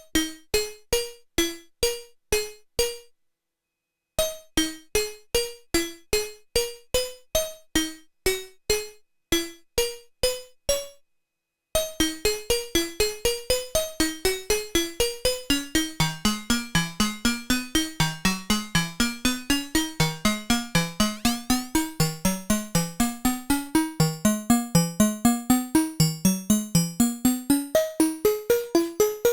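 Modbap Osiris wavetable oscillator playing a sequence of short plucked synth notes, about two or three a second, with two brief stops. After the second stop the sequence turns faster and denser, about four notes a second, with a lower line of notes stepping up and down beneath it.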